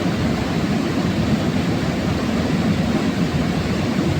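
Steady rush of a river tumbling down steep rapids, a loud, even roar of water heaviest in the low range.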